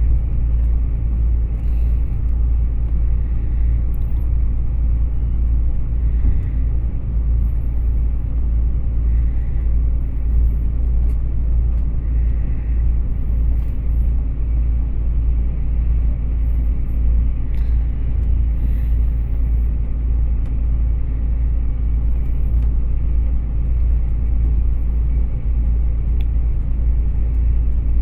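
Passenger train running between stations, heard from inside the carriage as a steady low rumble.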